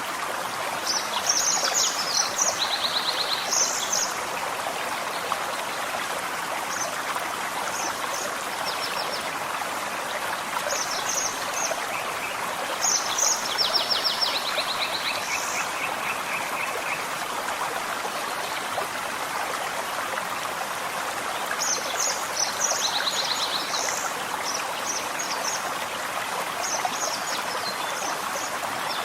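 Forest stream running steadily, with a songbird singing three bouts of high chirps and quick trills, about ten seconds apart.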